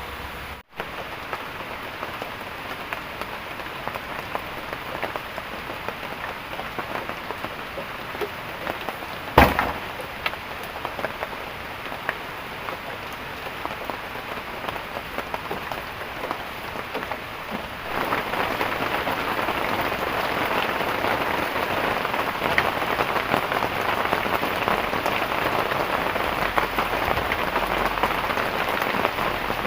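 Heavy rain falling steadily, a dense patter of drops. One short loud thump about a third of the way in, and the rain gets louder a little past halfway.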